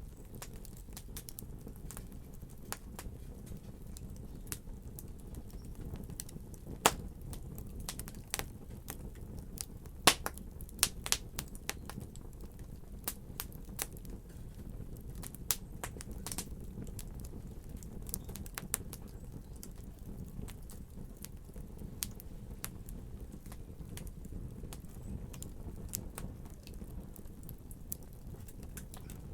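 Wood fire crackling in a fireplace: irregular sharp pops and snaps over a low steady rumble of burning, with a few louder pops scattered through.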